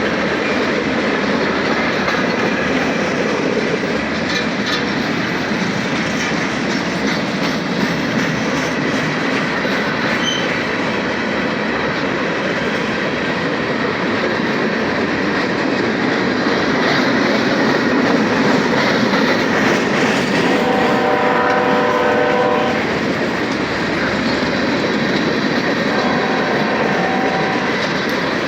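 BNSF freight train running past, with a steady rumble and wheel clatter. The locomotive's horn sounds a chord for about two seconds around two-thirds of the way in, then again briefly near the end.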